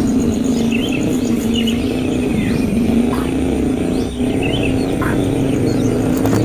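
Short, high bird chirps repeating every second or so over a steady low hum.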